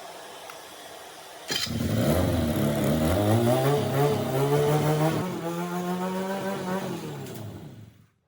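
Kawasaki Z800 inline-four motorcycle engine coming in suddenly about a second and a half in and revving. The pitch climbs, holds steady, rises again, then falls away and stops near the end.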